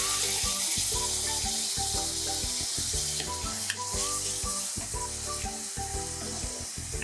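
Chopped tomatoes, onions and green chillies sizzling in hot oil in a kadai while a spatula stirs them, a steady frying hiss.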